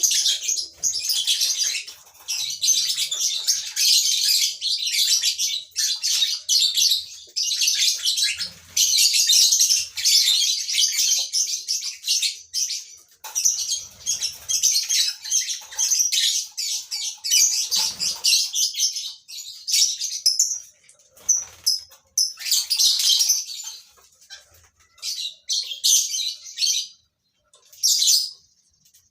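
A colony of lovebirds chattering with shrill, high-pitched calls in dense runs, thinning to scattered bursts in the last several seconds.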